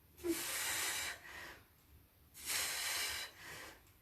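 A woman breathing hard from the effort of abdominal crunches: two loud breaths out, each about a second long, about two seconds apart, with softer breathing between them.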